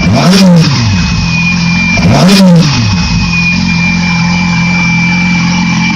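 2008 Yamaha YZF-R6 inline-four engine idling and blipped twice. Each blip makes the revs rise and fall quickly, once about half a second in and again about two seconds in, before the engine settles back to a steady idle.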